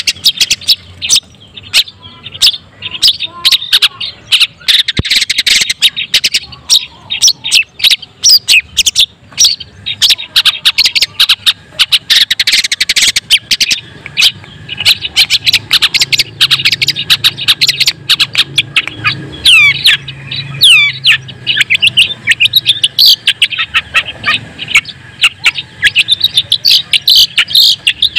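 Long-tailed shrike (white-breasted cendet) singing: a fast, unbroken stream of sharp chattering notes, with a few curving whistled notes about twenty seconds in.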